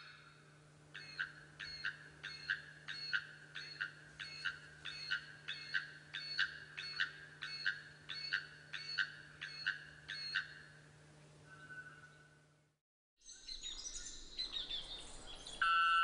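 A perched bird calling: a regular series of about twenty short, ringing notes, roughly two a second, that stops about ten seconds in. After a brief break near the end, other bird calls begin.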